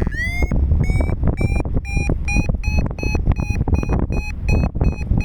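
Paragliding variometer beeping its climb tone: short high beeps at about three a second, slowly rising in pitch, the sign that the glider is climbing in lift. A steady low wind rush runs underneath.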